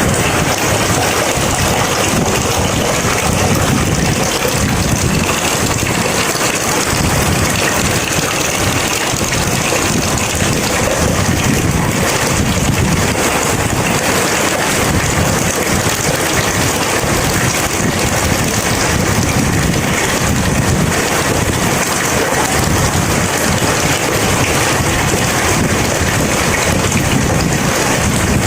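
Heavy rain falling steadily in a thunderstorm, a dense, even hiss with a low rumble underneath and no sharp claps.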